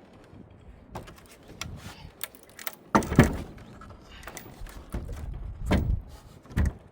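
Scattered knocks, clicks and thumps from hand work with tools and hardware, the loudest thumps about three seconds in and again near the end.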